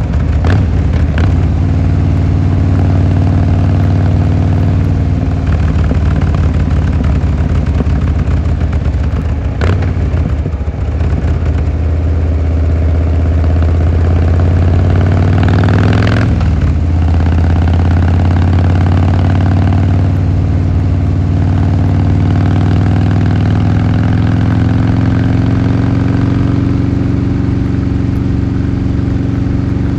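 Harley-Davidson Fat Boy Lo's V-twin engine and exhaust running steadily under way. The engine note shifts and slides in pitch between about ten and seventeen seconds in, then holds steady and climbs slowly near the end.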